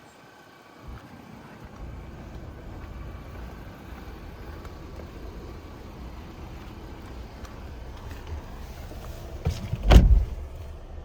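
Volvo XC60 T6's 2.0-litre turbocharged and supercharged four-cylinder starting from cold about a second in, then settling into a steady low idle. Near the end come two loud thumps.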